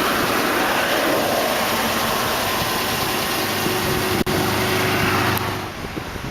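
Steady roar of passing highway traffic, with a vehicle engine humming along in the second half; the noise drops away about five and a half seconds in.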